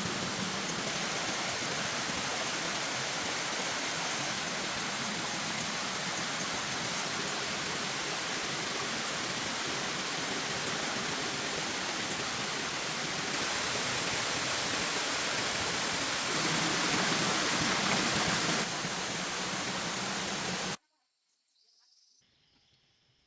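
Steady rushing water sound, stepping up and down in level a few times, that cuts off abruptly about 21 seconds in, leaving near silence with a few faint ticks.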